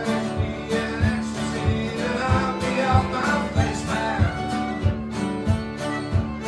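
Live acoustic folk music: strummed acoustic guitar over a steady beat, with a melody line carried above it.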